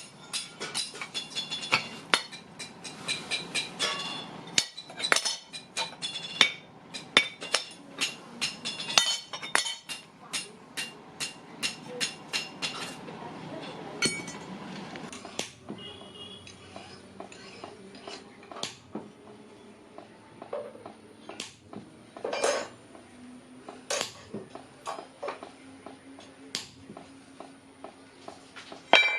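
Hammer blows on the steel of a truck leaf spring, a quick, regular run of ringing metallic strikes for about the first thirteen seconds, then slower, scattered strikes and clinks.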